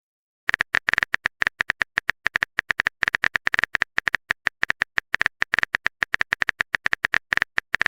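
A typing sound effect: rapid, irregular keyboard-tap clicks, about eight to ten a second, starting about half a second in.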